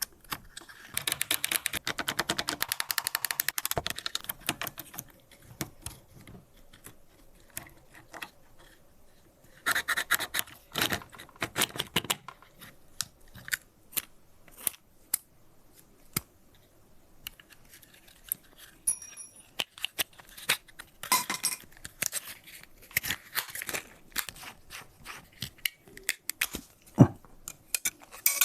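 Small plastic and metal parts of a bicycle shifter being handled and worked apart by hand: scattered sharp clicks and scrapes, with two runs of rapid clicking, one near the start and one about ten seconds in.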